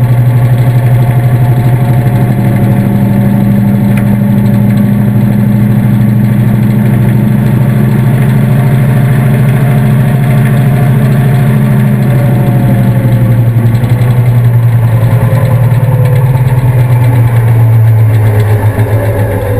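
Washing machine spinning, heard from inside the drum: a loud, steady motor hum whose pitch starts to fall near the end as the spin slows.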